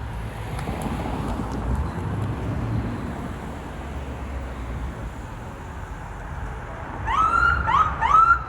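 Low street rumble, then about seven seconds in a fire department vehicle's electronic siren starts up in a fast yelp, quick rising whoops about two or three a second that carry on loudly.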